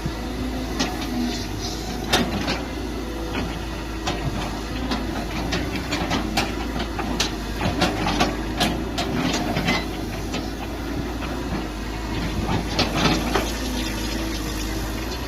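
Mini excavator engine running steadily, with a string of sharp clanks and knocks from the bucket and arm at work, bunched in the middle and again near the end.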